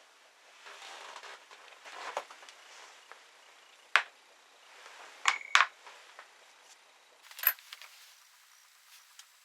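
A handful of sharp metallic clicks and clinks, with soft scraping and rustling between them: small metal parts and hand tools being handled during work on a scooter.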